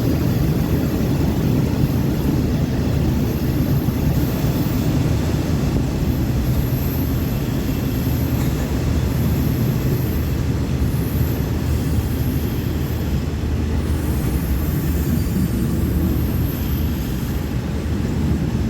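Passenger train running along the track, heard from on board: a steady low rumble of wheels and carriage.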